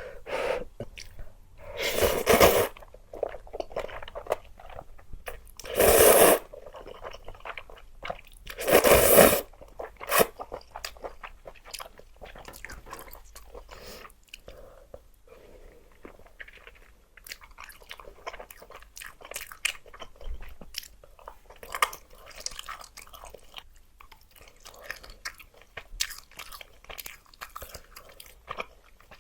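Close-miked eating of luosifen (river-snail rice noodles): three loud noodle slurps about a few seconds apart in the first ten seconds, then steady chewing with small wet clicks and crunches.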